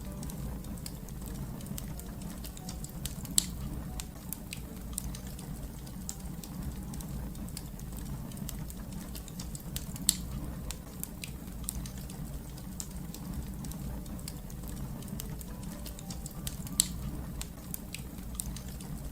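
Fire crackling: a steady low rumble of burning with scattered small snaps, and three sharper, louder pops about seven seconds apart.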